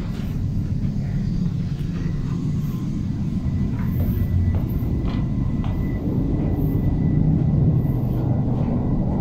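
Cabin sound of a Swiss passenger train in motion: a steady low rumble of the wheels and running gear on the track, with a few faint clicks and a faint, steady high tone.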